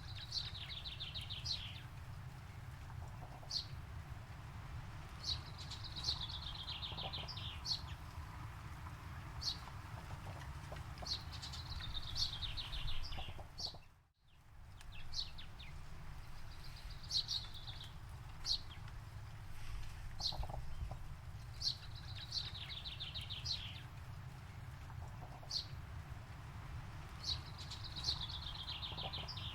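A songbird singing a repeating phrase: a short sharp high note, then a quick run of notes falling in pitch, about every five to six seconds, over a steady low rumble. The sound cuts out briefly about halfway through and fades back in.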